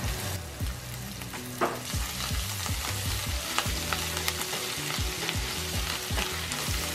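Pork belly, onion and garlic sizzling in rendered pork fat in a stainless steel pan, with a spatula stirring and now and then scraping and knocking against the pan.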